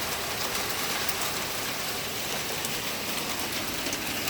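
Steady rain falling, a dense even hiss with faint scattered ticks of drops striking a surface.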